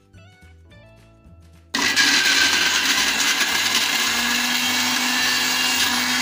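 Electric countertop blender switched on about two seconds in, then running loud and steady as it grinds shallots, garlic, ginger, turmeric and galangal with a little oil into a spice paste. Soft background music before it starts.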